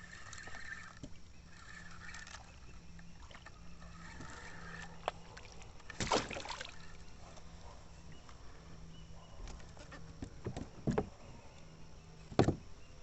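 Kayak on calm water: a few short sharp knocks and splashes against the hull, the loudest about six seconds in and near the end, over a quiet steady background.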